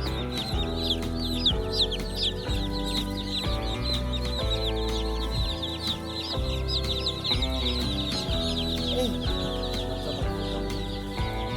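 A flock of day-old broiler chicks peeping continuously: many high, short, downward-sliding cheeps overlapping. Background music with sustained chords and bass plays under them.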